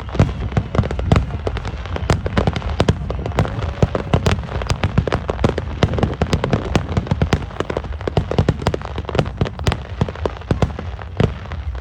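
Fireworks display: a dense, rapid run of bangs and crackles, several a second, over a steady low rumble.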